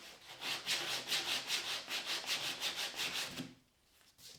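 Hand sanding an MDF template: quick back-and-forth strokes of abrasive on the edge, several a second, that stop shortly before the end.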